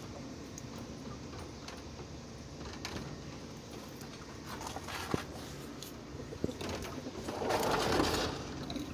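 Chickens foraging: soft low clucking and scattered small clicks of scratching and pecking, with a louder rustling swell about seven and a half seconds in.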